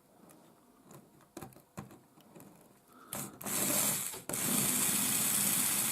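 A few faint clicks as a 0-4-0 model locomotive is set on a wheel-cleaning unit. About three seconds in, its small electric motor starts and runs steadily, spinning the driving wheels against the cleaner, with a short break just after four seconds.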